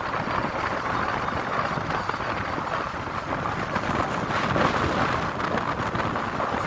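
Steady road and tyre noise inside the cabin of a moving car.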